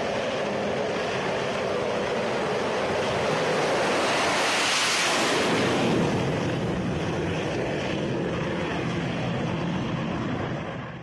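Jet aircraft passing by: a steady jet rush that swells to a peak about five seconds in and then fades.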